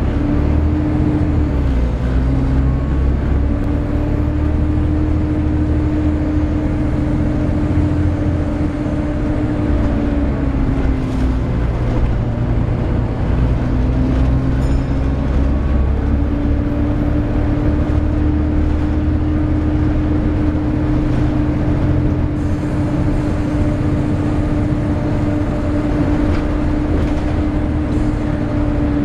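Volvo B7TL double-decker bus running, its engine rumbling under a loud, steady 'hoover' whine from the cooling fan. The whine sags in pitch for a few seconds midway, then rises back and holds.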